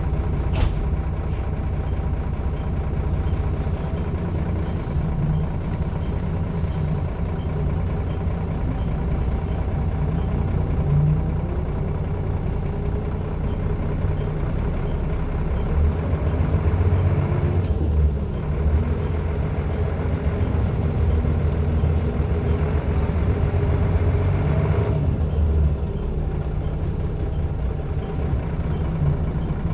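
Scania L94UB single-deck bus with a ZF automatic gearbox running on the road, the engine and driveline note rising and falling in pitch as it speeds up and slows. A brief hiss comes just after the start.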